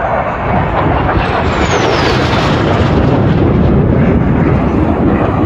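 Loud jet noise of an F-16 fighter passing by, with a high whine that falls in pitch starting about a second in.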